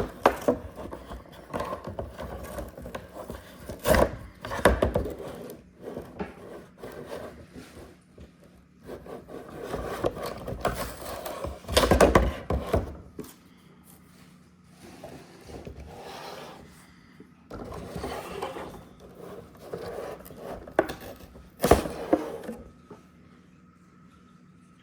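Toy-truck packaging being handled and worked open by hand: irregular rubbing, scraping and sharp knocks, which stop near the end.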